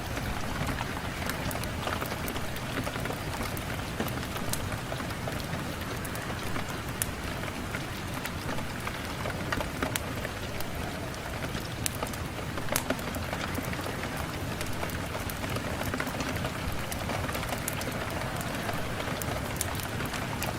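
Steady rain falling on a window pane, with many scattered sharp ticks throughout.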